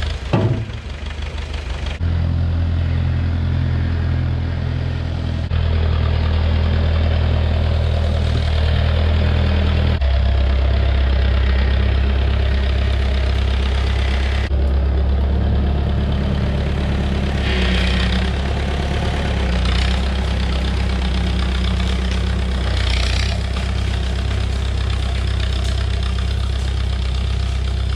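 Tractor engine running under work, its speed shifting up and down in steps several times. Brief scratchy noises come over it now and then.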